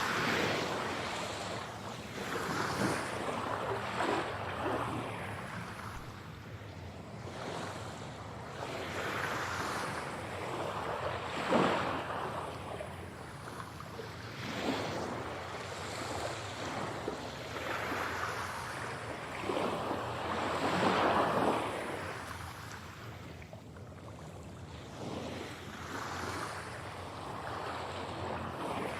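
Sea waves breaking and washing in and out, swelling and fading every few seconds, with a sharper surge about twelve seconds in. The sound is processed as 8D audio, panned around the listener's head.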